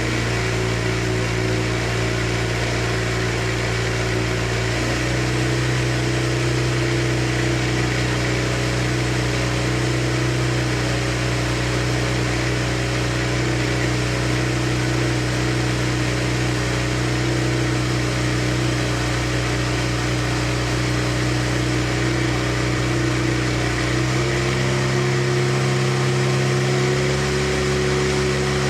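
Mazda RX-7 FC3S's 13B twin-rotor rotary engine idling steadily. Its idle speed steps up slightly twice, about five seconds in and again near the end.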